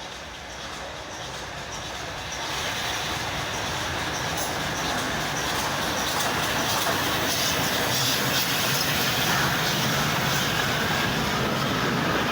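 Steam train hauled by the LNER A4 Pacific Union of South Africa approaching on the line, its running noise growing steadily louder.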